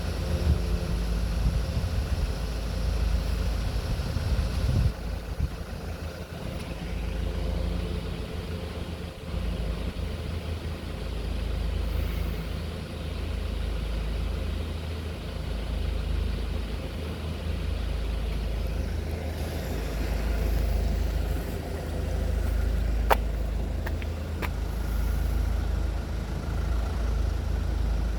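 Road traffic at a level crossing: motor vehicle engines running with a steady low rumble, and a single sharp click a little past the middle.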